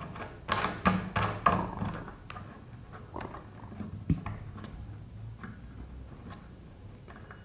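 Clicks and knocks of washing machine trolley parts being handled while the lock knobs are fitted: a quick cluster in the first two seconds, then a few single taps.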